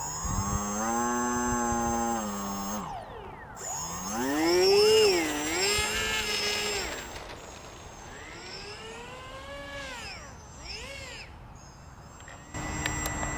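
Electric motor and propeller of an AeroScout RC plane in flight, a whine that changes pitch with the throttle. It holds a steady note for about two seconds, climbs and dips again around four seconds in, then runs lower and quieter with more rises and falls toward the end.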